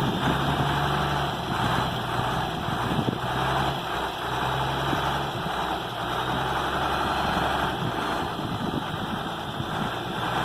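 Engine idling steadily, its low hum easing and swelling every second or two.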